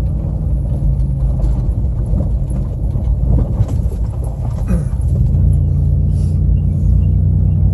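Vehicle engine running while driving, heard from inside the cab as a steady low hum. Irregular clattering knocks come in the middle, and the engine settles into a steadier, stronger low note about five seconds in.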